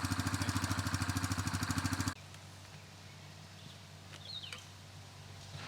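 A small engine running with a rapid, steady pulse, cut off abruptly about two seconds in. After that comes a faint steady low hum with a couple of short high bird chirps.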